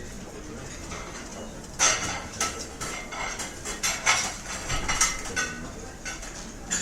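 Restaurant cutlery and dishes clattering: a run of sharp clinks of metal on china, the loudest about 2 and 4 seconds in, over a steady background hubbub.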